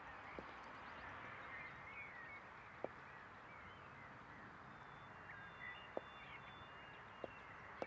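Faint outdoor ambience: small birds chirping over a steady hiss, with a few scattered sharp clicks.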